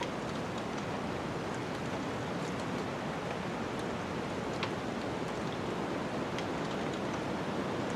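Steady rushing noise of a snowstorm, with a few small crackles and pops from a wood fire.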